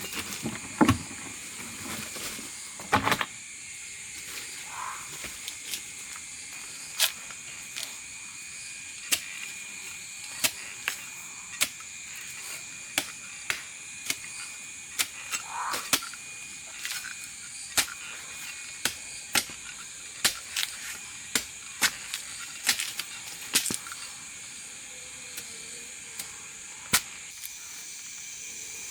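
Irregular sharp taps or snaps, about two dozen spread unevenly, over a steady high-pitched hiss.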